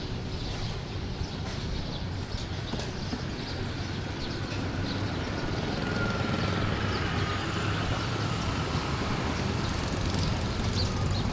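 Street traffic: the steady engine hum of passing road vehicles, growing louder about halfway through, with a faint whine.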